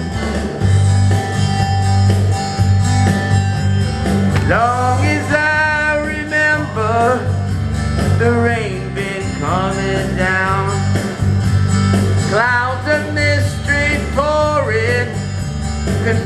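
Country-rock band music: a strummed guitar intro over bass and a steady beat, with a singer coming in about four seconds in and singing the opening verse over the band.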